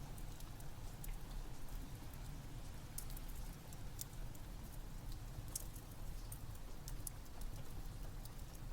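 Steady rain mixed with a wood fire crackling: a low, even rush with scattered sharp pops and snaps.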